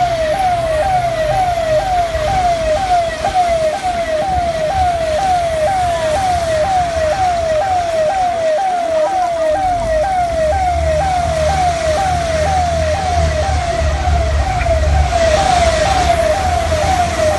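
Emergency vehicle siren wailing in a fast repeating sweep, about one and a half cycles a second, with a low engine hum joining about ten seconds in.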